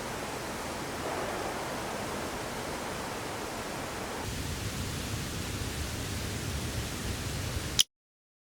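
Steady rushing of a river's flowing water, with a deeper rumble joining about halfway through. It cuts off abruptly with a click near the end.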